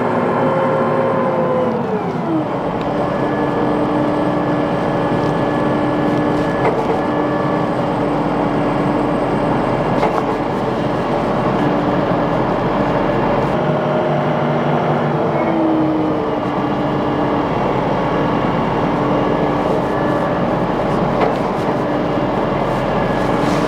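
Vehicle engine running steadily under load with a whining tone. Its pitch drops about two seconds in and shifts again around fifteen seconds in, as the vehicle slows and changes speed.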